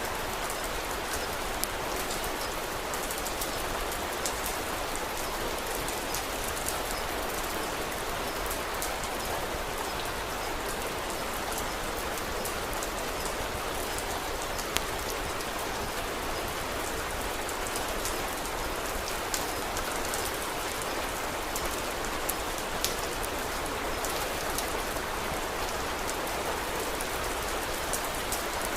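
Steady rain falling, with scattered sharp ticks all through it.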